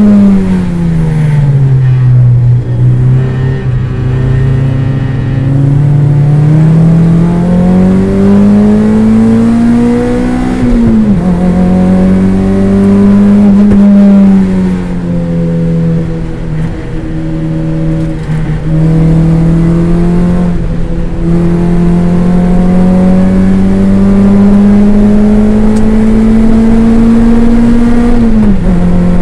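Toyota MR2 race car's engine heard from inside the cabin under racing load. The revs fall steeply at the start as the car slows, then climb steadily. They drop abruptly at upshifts about eleven seconds in and again near the end.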